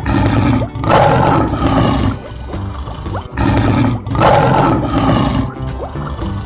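A lion roaring twice, each roar about two seconds long, over background music.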